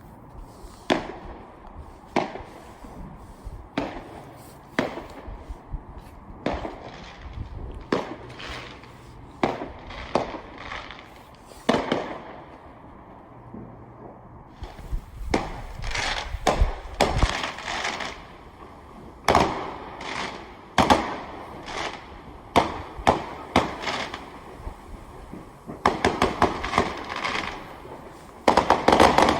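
Fireworks going off: a long string of sharp bangs at irregular intervals, some with a low rumbling boom, turning into dense rapid crackling volleys near the end.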